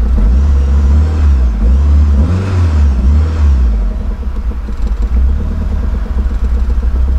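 Mitsubishi Lancer Evolution III's turbocharged 4G63 four-cylinder engine revved up and down over the first four seconds, then settling back to a steady idle; the engine has an unsettled idle that had just let it stall.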